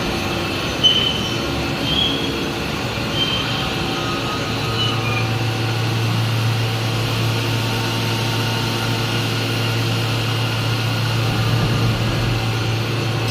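CNC milling machine running, with short high squeals in the first few seconds and a steady low hum joining about four seconds in.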